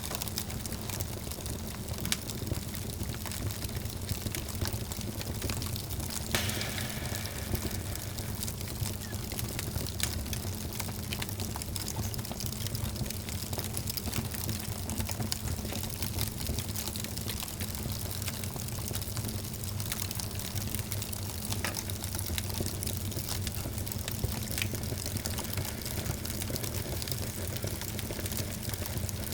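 Wood fire burning in a fireplace: a steady hiss and low rumble with scattered sharp crackles and pops.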